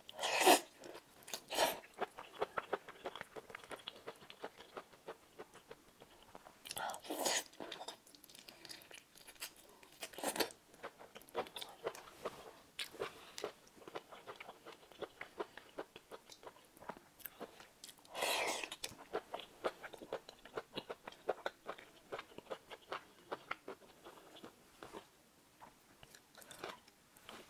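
A person biting and chewing shrimp close to a clip-on microphone. Steady wet chewing clicks, broken by a few louder crunching bites: one right at the start, one about a second later, and others around a quarter, a third and two thirds of the way through.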